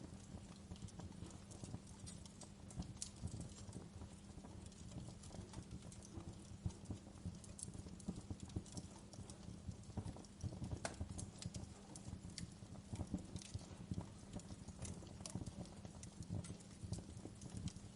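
Wood fire crackling: irregular snaps and pops over a steady low rumble of the burning fire.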